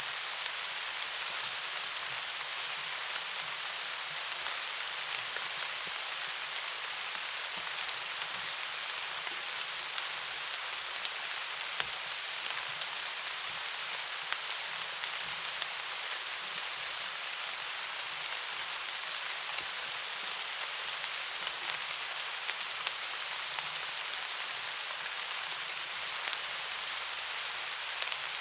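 Steady rain falling, an even dense hiss with a few sharper drop hits now and then.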